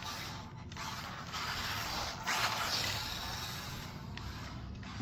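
Maverick Microbe 1/24-scale brushed short course truck driving, its small electric motor and gears whirring, with a louder surge about two seconds in.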